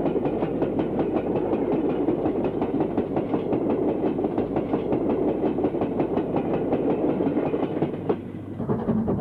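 Train running past, with a fast, even clatter of wheels over rail joints.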